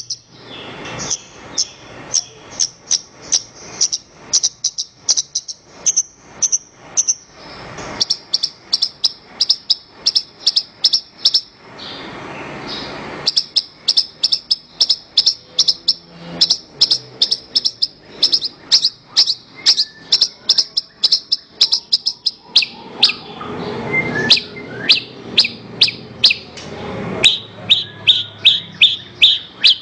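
Javan bush lark (branjangan) singing: a fast run of sharp, high chirping notes, about four a second, broken by a few rougher, buzzier passages. Near the end the notes drop a little lower in pitch.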